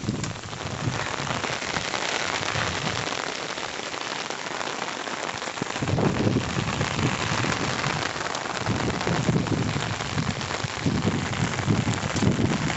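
Rain falling steadily, an even hiss; from about six seconds in, an irregular low rumble joins it.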